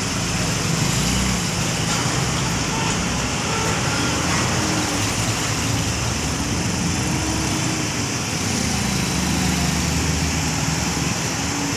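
A motor vehicle's engine running steadily, with a constant hiss of road or traffic noise over it.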